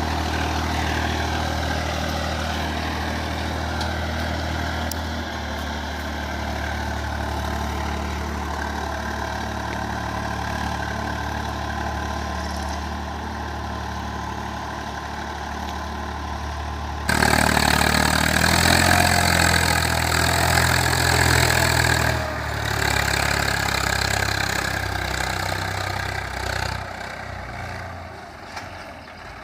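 Swaraj 855 FE tractor's diesel engine running steadily while pulling a seven-tine chisel plough. About 17 seconds in it suddenly gets louder and harsher, eases back about five seconds later, and fades toward the end.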